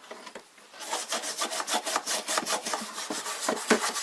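Rapid scrubbing or scraping strokes against the mineral scale in a hot-air humidifier, starting about a second in and going on at several strokes a second.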